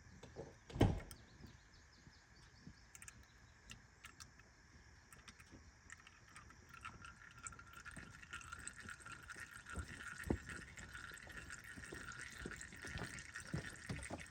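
Engine oil draining from an ATV's drain hole into a small plastic tub, a faint trickle and drip that grows a little in the second half. A single knock about a second in.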